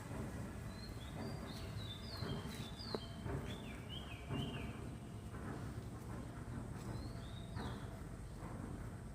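Small birds chirping: a quick run of short chirps from about one second in to about four and a half seconds, then a few more around seven seconds, over a steady low background rumble.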